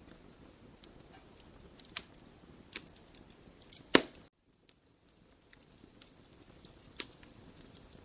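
Wood fire in a fireplace crackling, with scattered sharp pops over a faint hiss. One loud pop comes about four seconds in, then the sound drops out briefly before the crackling resumes.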